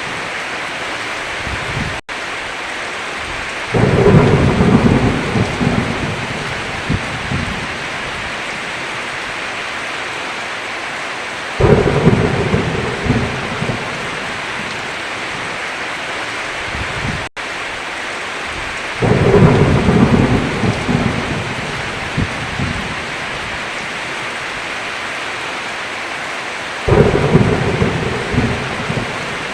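Steady heavy rain on a roof, with four loud rolls of thunder at nearly even intervals. Each roll sets in suddenly and rumbles away over a few seconds. The rain cuts out twice, only for an instant.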